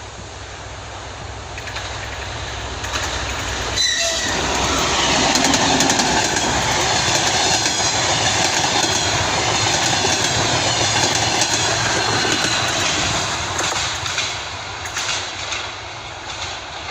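A train passing close by: the noise builds, wheels clatter over the rail joints for several seconds, then it fades away.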